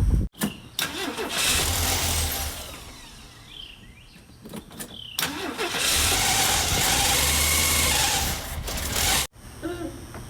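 Ford 300 inline-six engine started and run twice, each time running for a few seconds with a steady low drone before it drops away. The second run cuts off abruptly. This is a freshly rebuilt engine that will not idle, with a vacuum leak suspected, and a new carburettor base gasket has not cured it.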